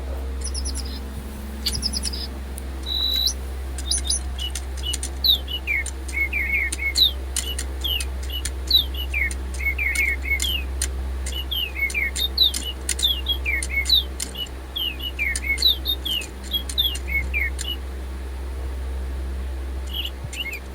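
Several Silverlit DigiBird robot toy birds linked in choir mode, playing electronic birdsong together. A few high chirps open, and about four seconds in it builds into overlapping song of quick falling whistles, which thins out near the end.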